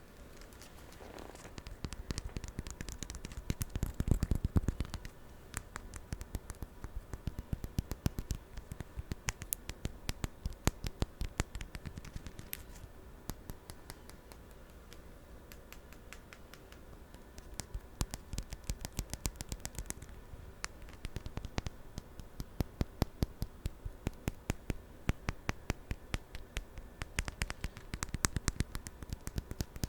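Close-miked chewing of tanghulu, sugar-glazed strawberries and green grapes: the hard candy shell cracking and crunching in rapid sharp clicks, loudest about four seconds in.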